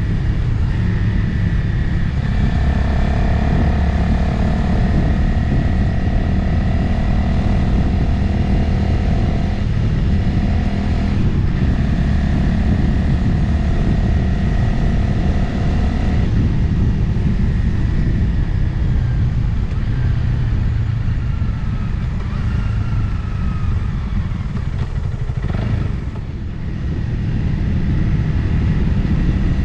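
Motorcycle engine running at cruising speed with wind rushing past the microphone. The sound eases off briefly near the end, then picks up again.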